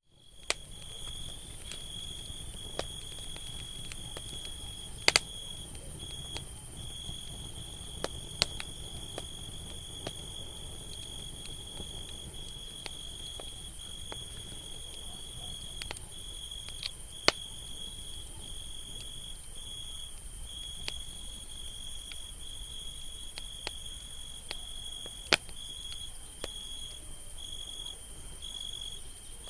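Campfire crackling with scattered sharp pops, a few of them louder, over a low rumble of the fire. A steady high insect trill with short breaks runs underneath.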